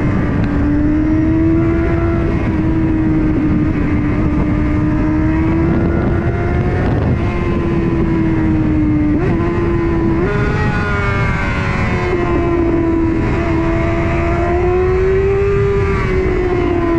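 Honda CBR600RR inline-four engine running at high, fairly steady revs while riding, its pitch drifting gently, stepping up about ten seconds in, climbing again and easing off near the end, over heavy wind rush on the microphone.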